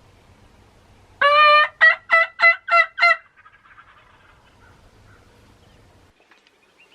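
A turkey yelp sequence: one drawn-out note followed by five short, quick yelps, loud and clear over a quiet woods background.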